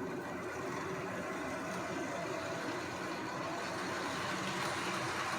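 HO scale model subway train with three powered cars running along the track: a steady motor whir and wheel rumble that grows a little louder toward the end.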